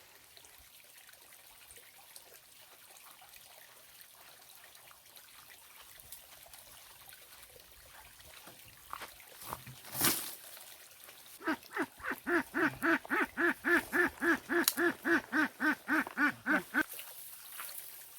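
A live domestic duck quacking in a rapid run of about four quacks a second for some five seconds, then stopping. A loud knock comes a little before the quacking.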